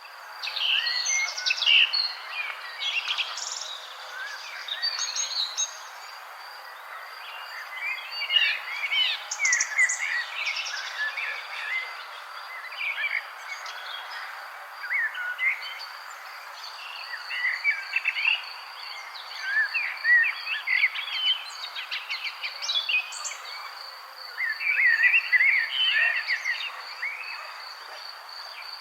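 Several songbirds chirping and calling in quick, overlapping bursts of short high notes. Under them runs a steady, high-pitched, finely pulsed insect trill, over a constant background hiss.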